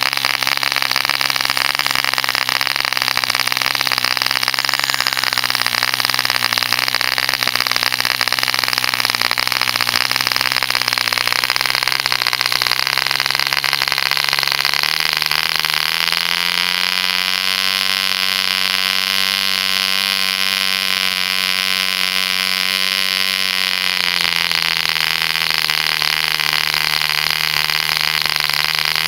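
Homemade 0.75 cc Mills-type contra-piston model diesel engine running steadily with a high buzz over a constant hiss. About halfway through it speeds up, holds the higher speed for several seconds, then drops back to its earlier speed.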